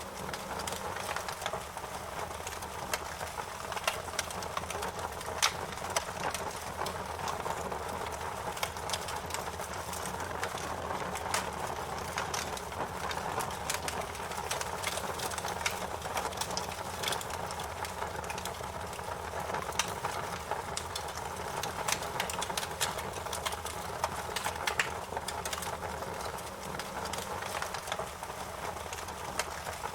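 Campfire burning, with irregular sharp crackles and pops over a steady hiss.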